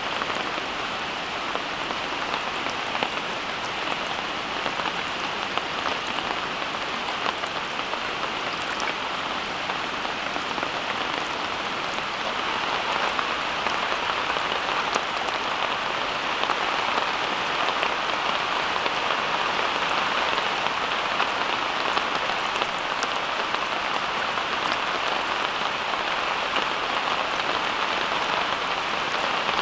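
Steady rain falling, a dense even patter that grows a little louder about twelve seconds in.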